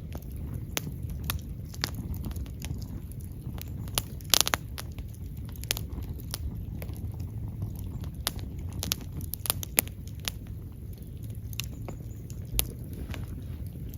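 Wood fire burning: irregular sharp crackles and pops over a low steady rumble, with the loudest cluster of pops about four seconds in.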